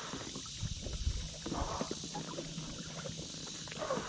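Kayak paddling sounds: water splashing and dripping off the paddle, with small knocks and wind rumbling on the microphone.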